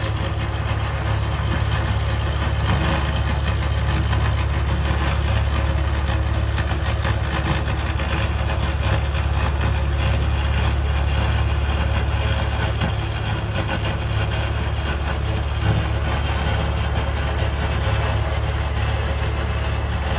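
2000 W laser rust remover at work: a steady low machine hum under a continuous crackling hiss as the beam cleans the rust off the metal.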